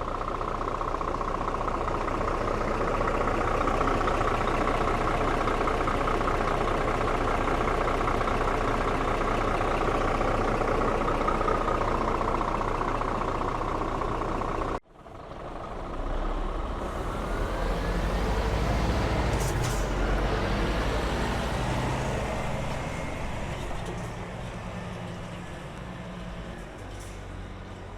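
Scania R450 truck's diesel engine running steadily. About halfway through, a cut to a deeper engine sound with a whine that rises in pitch, then slowly fades toward the end.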